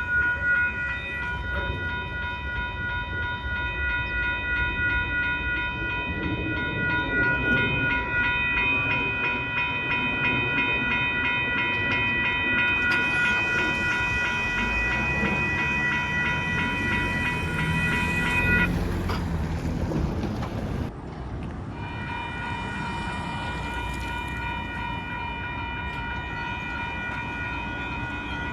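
Grade crossing warning bells ringing steadily while a light rail train rolls through, its wheel and motor noise swelling in the middle. About two-thirds of the way in, the bells stop for a few seconds, then start ringing again.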